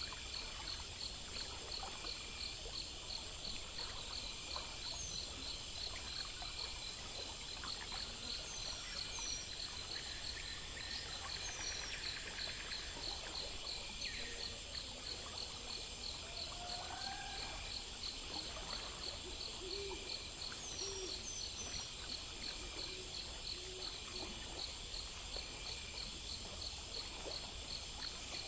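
Night-time nature ambience: crickets and other insects chirping steadily in a fast, even pulse, with a constant high trill above. A few short low calls come about two-thirds of the way through.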